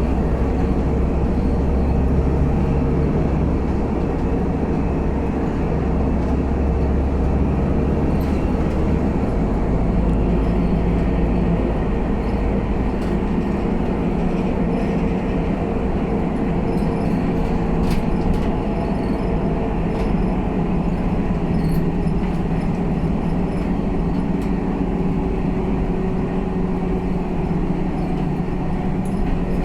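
Scania K320UA articulated bus heard from on board, its diesel engine running steadily under way over road rumble. The engine note shifts about nine seconds in.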